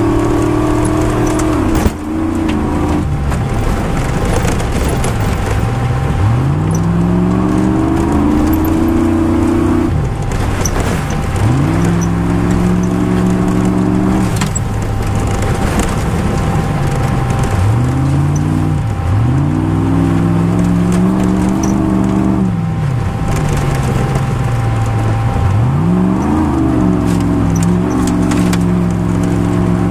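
Rally car engine heard from inside the cabin, pulling hard. Its pitch climbs through the gears, then drops back as it lifts off for corners, over and over, with sharp clicks and rattles over it.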